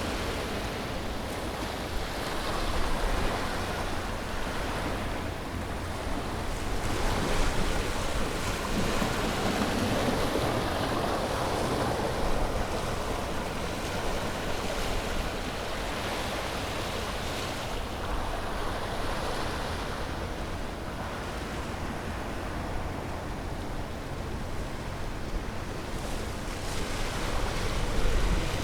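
Sea waves breaking and washing on a shore, a continuous surf that swells and ebbs every few seconds, with some wind buffeting the microphone.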